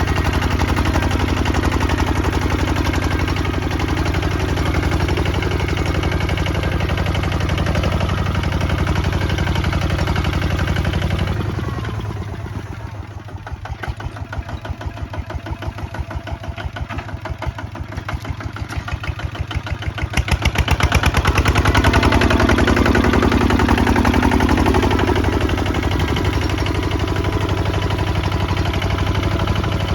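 Kubota ZT 155 DI walking tractor's single-cylinder diesel engine running steadily. About eleven seconds in it drops quieter to a slower, separate beat of firing strokes, then picks up again to full loudness around twenty seconds in.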